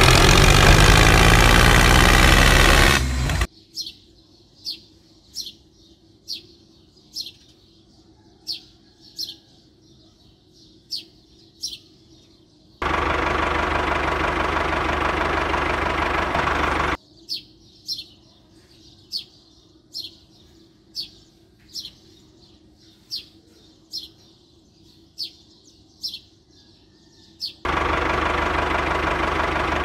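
Tractor engine running in three stretches that start and stop abruptly: for the first three seconds or so, for about four seconds in the middle, and again near the end. In the gaps between them a bird chirps, short high chirps about once a second.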